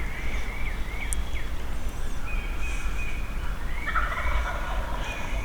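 Wild turkey gobbling, a dense rattling call about four seconds in, with smaller birds chirping earlier and a low steady rumble underneath.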